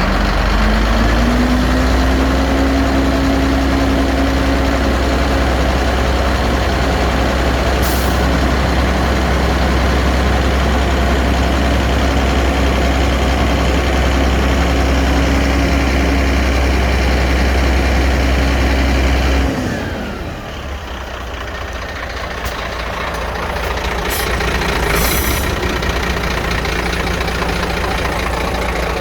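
Scania P380 dump truck's diesel engine running, its pitch climbing in the first couple of seconds and holding at raised revs, then dropping back to a quieter idle about two-thirds of the way through. A few short clicks come soon after the drop.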